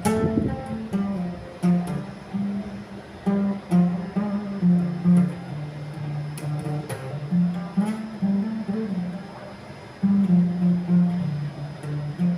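Guitar being plucked: a line of low notes, each starting with a sharp string attack.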